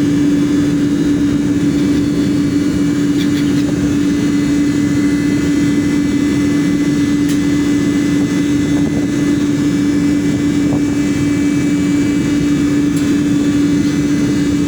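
Steady engine drone with a constant low hum, unchanging in level throughout.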